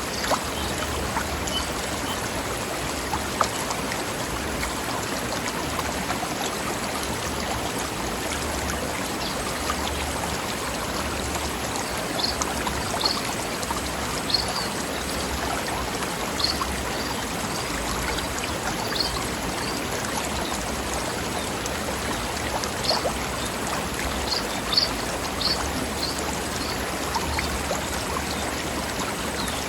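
Stream of water flowing over rocks: a steady rushing and babbling. Short high bird chirps come now and then, mostly in the second half.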